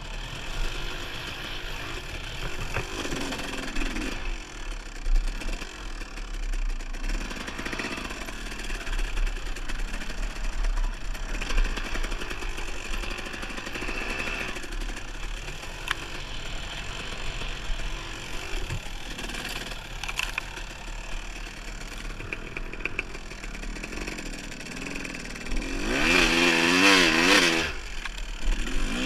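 Dirt bike engine running along a trail, its pitch rising and falling with the throttle, with a louder spell of revving about two seconds before the end.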